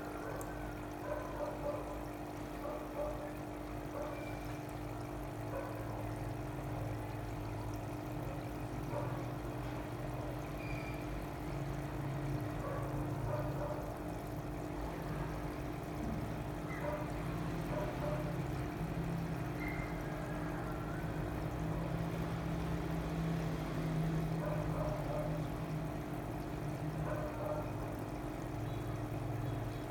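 Water pouring and trickling steadily over a constant low hum, typical of fish tanks with running filters or water inflow.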